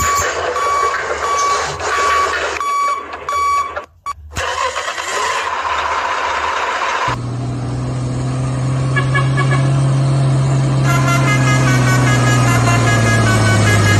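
A truck's reversing alarm beeps at an even rhythm over engine and road noise. About halfway through, the sound cuts to a heavy truck engine droning steadily at a low pitch, which sinks slowly.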